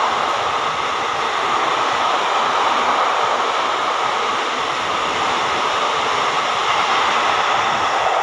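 Express train's passenger coaches rushing past at speed: a loud, steady rush of wheels on rail.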